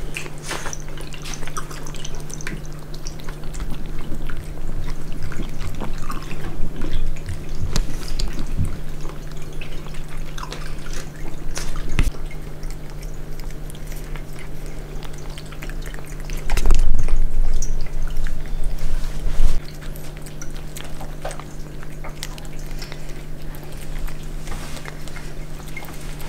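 Water dripping and trickling over a steady low hum, with scattered small clicks and a louder low rumble for about three seconds, some 17 seconds in.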